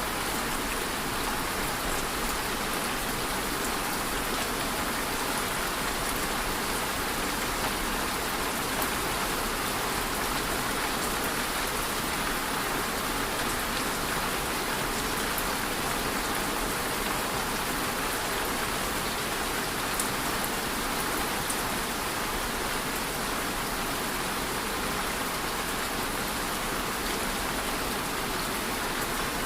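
Steady, even rainfall with scattered individual drop ticks.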